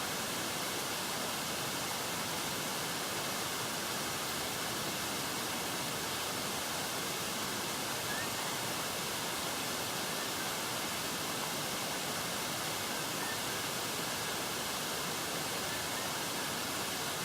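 Steady, even rushing hiss of water wash and wind around a moving kayak, with no change throughout.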